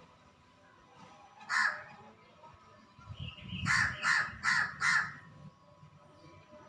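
Crow cawing: one caw, then a quick run of four caws about a third of a second apart.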